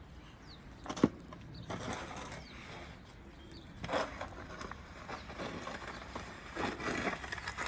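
Snow shovel scraping over snow and ice in irregular strokes, with a sharp knock about a second in.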